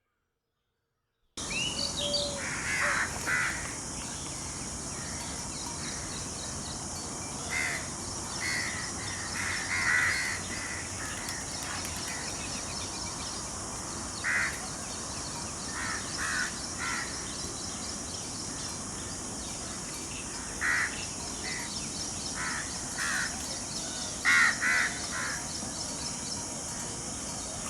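Short bird calls come every few seconds, often two or three in quick succession, over a steady high hiss. The sound starts abruptly about a second and a half in, after silence.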